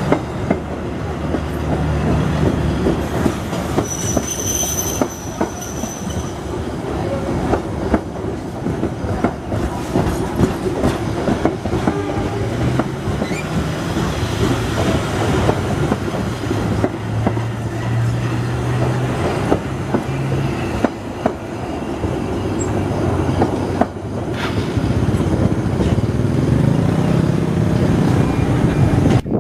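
A train passing close by with a continuous rumble and wheels clicking over rail joints. A brief high wheel squeal comes about four seconds in, and a low engine drone rises and falls.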